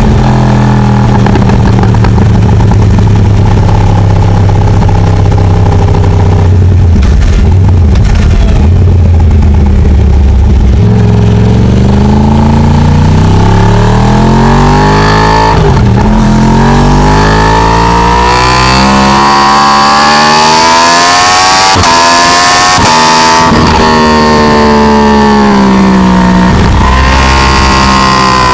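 Yamaha R1's big-bang (crossplane) inline-four engine heard on board: a steady, loud run for about ten seconds, then repeated revving up and easing off as the pitch climbs and falls, with short sharp breaks at gear changes.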